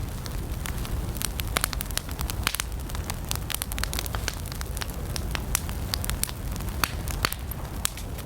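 Wood campfire burning, with frequent sharp crackles and pops at irregular intervals over a steady low rumble.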